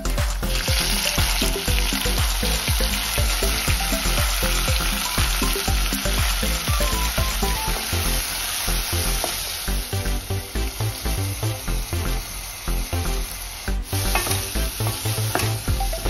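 Chopped tomatoes sizzling loudly as they hit hot oil with sliced onions in a pot and are sautéed, stirred with a wooden spatula; the sizzle starts the moment they go in and eases a little near the end. Background music with a steady beat runs underneath.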